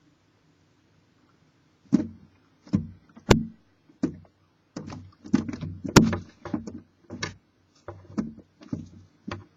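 Barn owls moving about inside a wooden nest box: irregular knocks, bumps and scrapes against the wood, starting about two seconds in.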